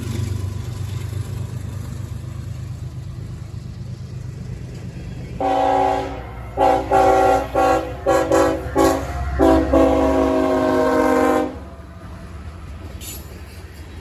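Diesel freight locomotive's multi-chime air horn sounding a series of blasts: a short opening blast, several quick blasts, then one long blast that cuts off suddenly, over the low rumble of the passing train.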